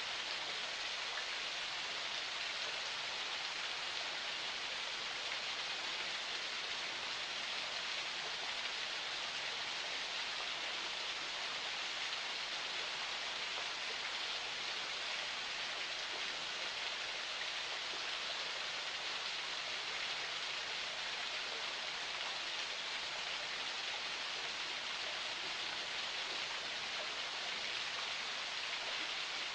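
Water of a forest spring flowing, a steady, even rush that does not change.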